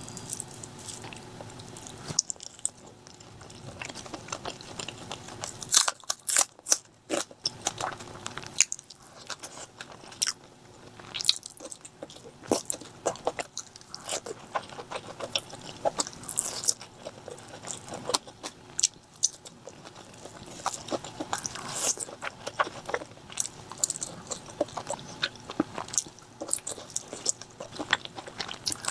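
Close-miked eating of chicken curry and fried liver: irregular biting and chewing with many sharp wet mouth clicks.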